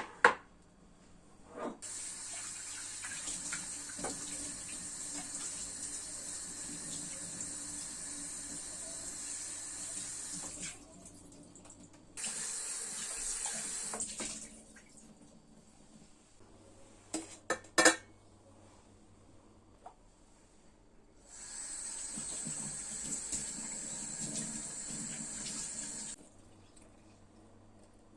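A tap running into a sink, turned on and off in three spells, the longest about nine seconds. Between spells come a few sharp knocks: one at the very start and three close together past the middle.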